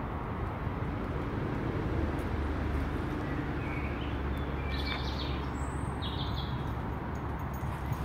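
A few short bird chirps about halfway through, some gliding up high, over a steady low outdoor rumble.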